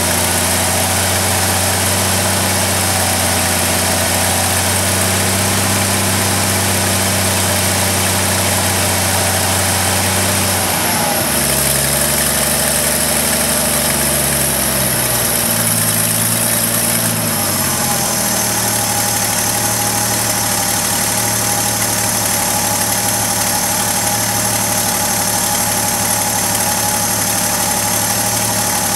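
1972 Chevrolet Custom 10 pickup's engine idling. Its speed shifts a few times between about eleven and eighteen seconds in, then holds steady.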